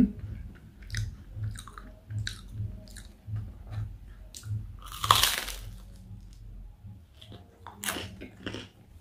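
A person chewing a mouthful of roast dinner close to the microphone, at about two to three chews a second, with small wet clicks and crisp crunches. A louder crunch comes about five seconds in.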